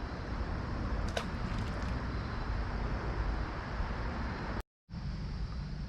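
Steady outdoor background noise, a low rumble with a hiss over it, and one short click about a second in. The sound cuts out completely for a moment near the end.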